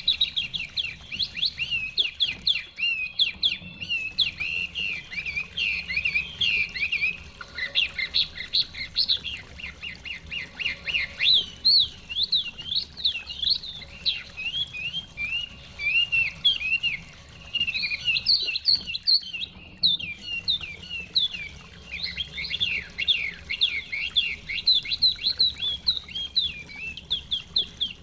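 Chinese hwamei (melodious laughingthrush) singing a fast, continuous stream of varied rising and falling notes, broken by a couple of short pauses.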